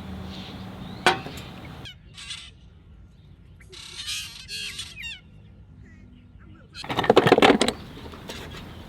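Birds calling: short chirping calls with quick pitch glides, then a loud honking call near the end.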